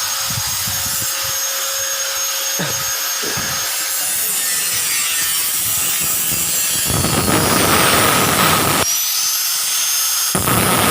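Power tool grinding on steel bumper stock, with a steady high whine; the grinding gets heavier and louder from about seven to nine seconds in, and again near the end.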